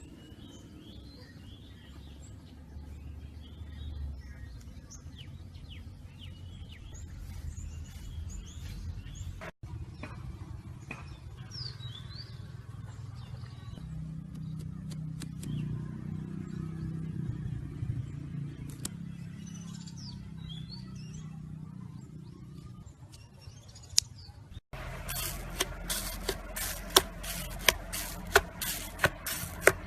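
Scattered bird chirps over a low rumble. About 25 seconds in this gives way to a louder run of sharp clicks, roughly two or three a second.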